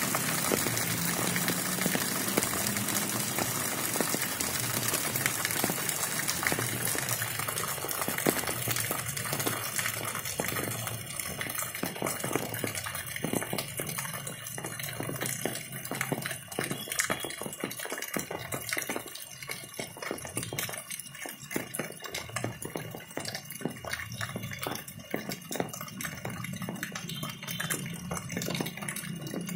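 Rainwater pouring down and splashing. It is a dense, steady rush at first, then thins after about ten seconds into separate splashes and drips.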